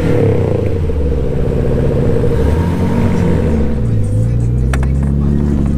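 Car engine revving as a manual car pulls away: the pitch climbs, peaks, drops back as the gear changes, then the engine runs steadily, with a few sharp clicks near the end.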